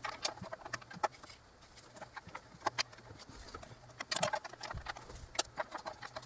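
Scattered light metallic clicks and taps as the last intake manifold bolt is fitted and threaded in.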